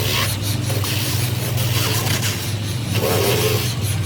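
A steady low mechanical hum with intermittent scraping and rubbing over it, loudest about three seconds in.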